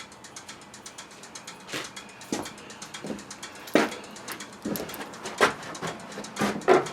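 A ratchet wrench clicking rapidly and evenly for the first second and a half or so, then irregular knocks and clunks of tools and parts being handled, the loudest about four seconds in and near the end.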